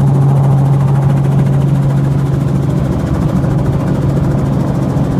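Helicopter running, a loud steady drone of engine and rotor with a strong low hum.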